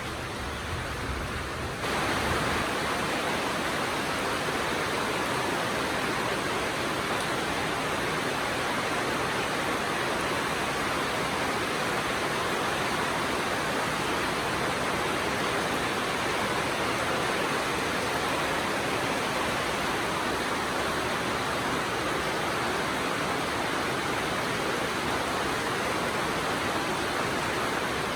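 Steady, dense rainfall, an even hiss of falling rain that gets louder about two seconds in and then holds constant.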